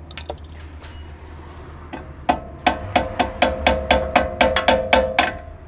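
Hammer blows on a brake caliper and pad, knocking to push the pads and pistons back into the caliper: a quick run of about fifteen ringing metallic strikes, about five a second, starting a couple of seconds in.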